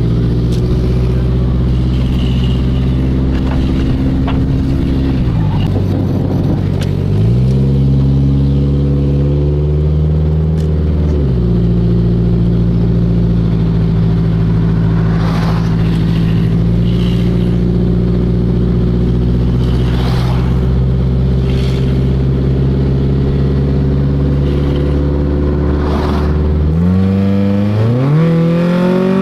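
Car engine running under way, heard from inside the car: a steady drone whose pitch drops and climbs back a couple of times as revs change, rising sharply near the end as it accelerates.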